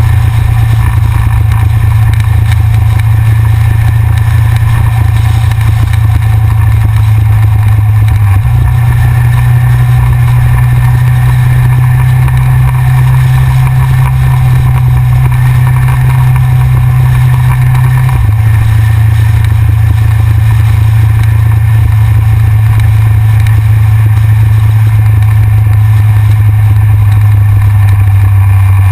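Yamaha XJR motorcycle's inline-four engine running loud at steady revs, stepping up in pitch about eight seconds in and settling back down about ten seconds later.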